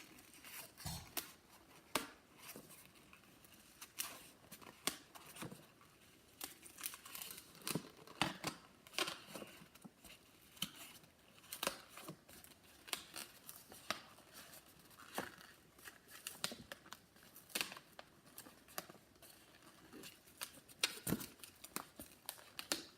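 A long latex modelling balloon being twisted and handled, giving irregular sharp squeaks and rubbing crackles of the rubber.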